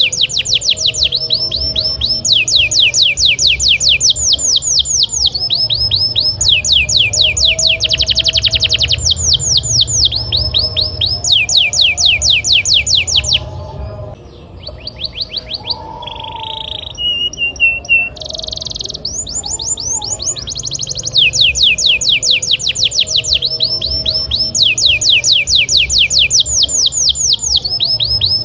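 Canary singing a long rolling song: fast trills of high notes that each sweep downward, switching from one tour to the next. About halfway through it breaks off briefly into a few separate short notes and a buzzy tone, then the rapid trills resume.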